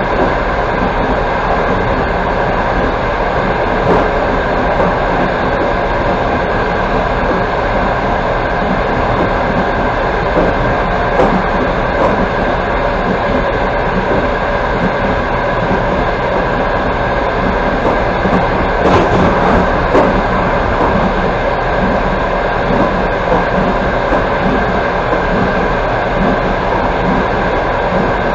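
Passenger train coach running at speed on the rails: a steady rumble of wheels and running gear, with a few faint knocks from the track now and then.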